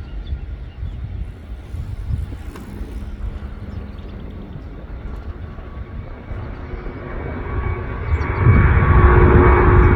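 Jet airliner on its takeoff run, engine noise building from a low rumble to a loud roar about eight seconds in, with steady whining tones over it.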